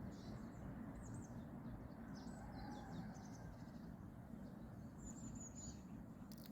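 Faint outdoor ambience: scattered short bird chirps and calls throughout, over a steady low background noise.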